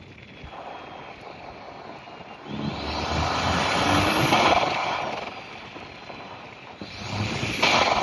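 Lotus Emira's AMG 2.0-litre turbocharged four-cylinder accelerating under normal throttle, heard as loud intake and turbo noise through the open window: a rising whooshing whine swells about two and a half seconds in, eases off, then climbs again near the end.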